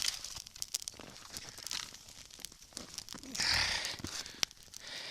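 Small campfire of branches crackling with scattered sharp pops, and a louder rustle lasting about half a second, about three and a half seconds in.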